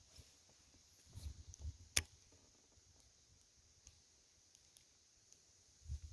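Faint low knocks, then one sharp click about two seconds in, followed by a few scattered light ticks.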